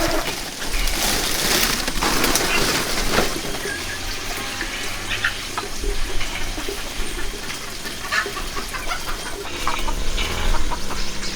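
Chickens clucking, with short scattered calls over a noisy background.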